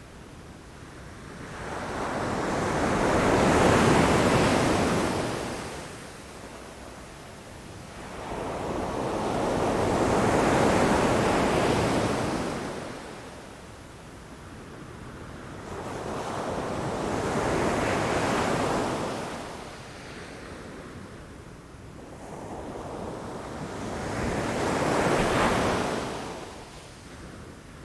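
Ocean waves breaking against rocks. Four waves surge in, each swelling to a rushing crash and draining away over about seven seconds.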